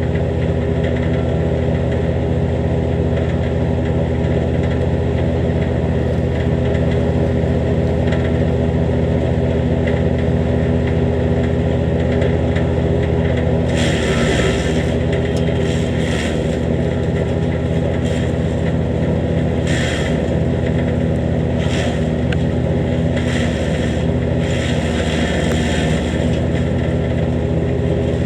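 Jansen GTS-1500 wood chipper running steadily. From about halfway through, short irregular bursts of crunching and rattling come over the engine as brush is fed in and chipped. The chipper has a freshly adjusted bed knife and new blades, and the owner says it ran much smoother.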